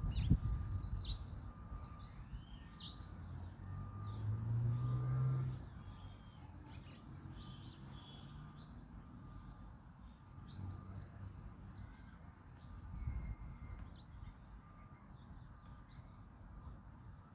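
Songbirds chirping and calling, many short notes and sweeps overlapping. A low engine-like rumble swells and fades about four to five seconds in, and a faint short beep repeats evenly in the background.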